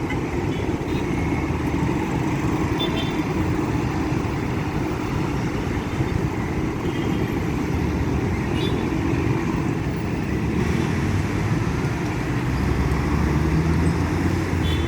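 Heavy road traffic: a steady low rumble of car and truck engines and tyres in a jam, growing a little louder near the end.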